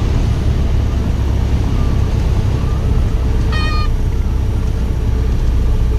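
1977 Cessna 150's Continental O-200 engine and the airflow heard inside the cabin as a loud, steady low drone. The stall warning horn squeals briefly twice, about three and a half seconds in and again near the end, as it typically does in the landing flare just before touchdown.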